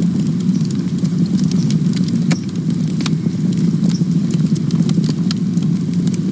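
Campfire burning: a steady low rumble from the flames with frequent sharp crackles and pops scattered throughout.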